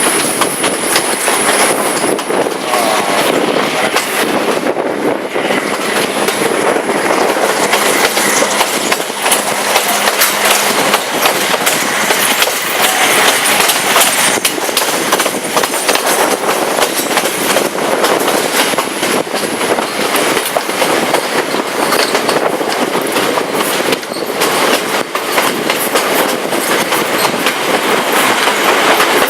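Passenger train running at speed, heard from on board: steady rumble and rattle of the carriage, with the wheels clattering over the rail joints.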